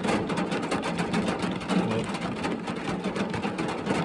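Rain falling on a car, heard from inside the cabin: many small irregular taps of drops hitting the body and glass over a steady low hum.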